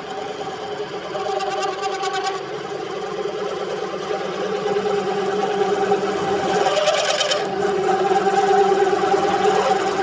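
Milling machine spindle turning at about 578 rpm as a 17 mm drill bit bores into metal: a steady machine hum growing gradually louder, with short spells of scratchy cutting noise about two seconds in and again around seven seconds.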